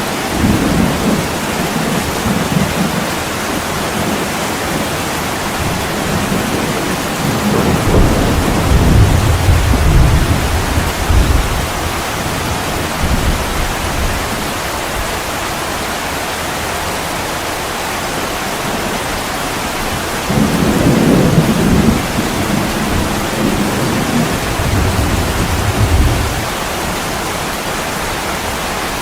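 Heavy rain falling steadily, with low rolls of thunder rumbling in several times; the longest roll comes about a third of the way through.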